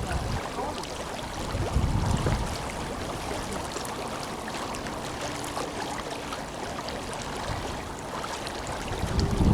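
The Tenryū River flowing: a steady rush of moving water with fine crackles and splashes. Low rumbling swells come about two seconds in and again near the end.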